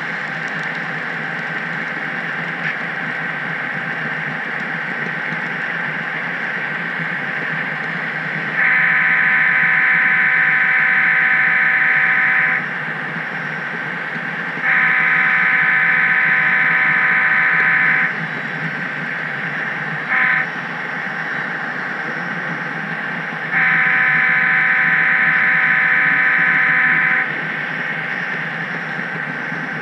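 Sound-equipped HO-scale model locomotive blowing its horn in the long-long-short-long grade-crossing pattern: three blasts of about three to four seconds, with a short toot before the last. Under it runs the steady noise of the model train rolling on the track.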